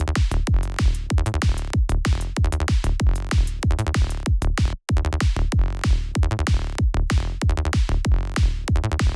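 Synthesized kick drum and bass line playing back as a looped electronic groove, with repeated punchy kicks and rapid bass pulses between them. The playback cuts out briefly a little under five seconds in, then resumes.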